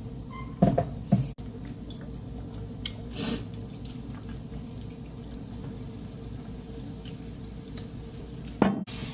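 Kitchen handling noises during cooking: a few soft thuds and a brief wet swish over a steady low hum.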